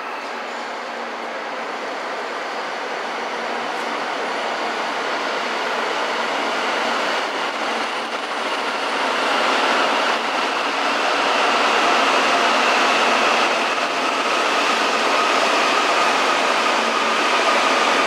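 E2 series Shinkansen train running slowly into a station platform. Its rushing running noise grows louder, and from about halfway through steady whining tones are heard over it as the train slows.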